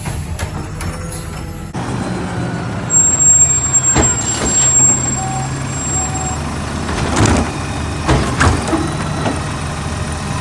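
Garbage truck engine running steadily while garbage cans are banged against the truck to empty them: about four loud bangs, one about four seconds in and a cluster near the end. Two short beeps sound midway.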